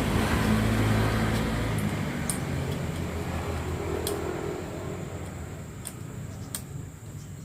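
A vehicle engine rumbles loudly, then fades away gradually over several seconds. A few light clicks are heard in the second half.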